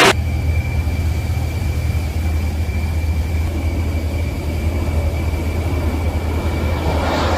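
Steady low engine drone with a faint, steady high whine above it.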